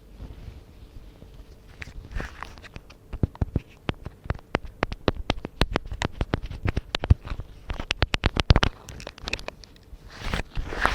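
Rubber-gloved fingers tapping and scratching on a microphone: a fast, irregular run of sharp taps, with the glove rustling near the start and again near the end.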